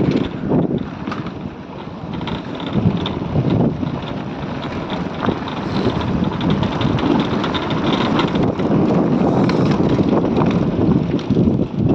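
Wind buffeting the microphone over a motorcycle riding along, with frequent short knocks and rattles through the ride.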